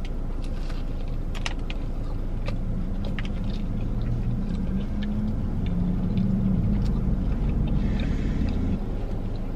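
Steady low rumble inside a parked car's cabin, with faint wet clicks of a burger being chewed. A breath is blown out about eight seconds in as the ghost pepper heat builds.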